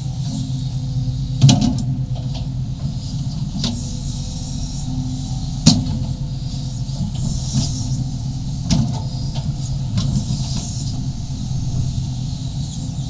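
Sumitomo SH350-HD-5 excavator's diesel engine running steadily while digging a trench. It is broken by several sharp knocks, the loudest about one and a half seconds and about six seconds in.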